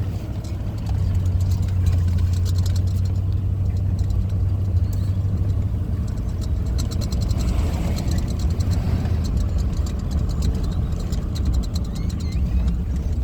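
Car cabin noise while driving slowly: a steady low engine and road hum, with scattered light ticks and crackles.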